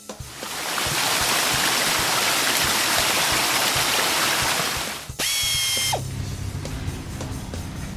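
Cartoon sound effect of spraying water, a steady loud hiss, over a children's music track. About five seconds in it stops and a short high tone sounds for under a second.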